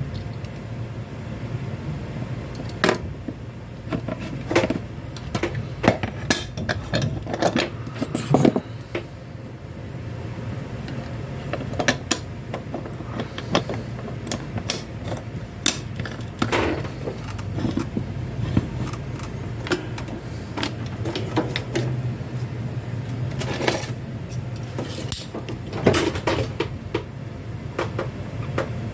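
Irregular small clicks, taps and clatter of small parts and tools being handled during a toy repair, over a steady low hum.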